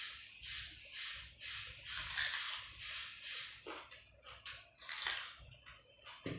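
Close-miked mouth sounds of someone chewing rice and fish curry with a bite of raw onion: crisp, wet crunching in a steady rhythm of about two chews a second.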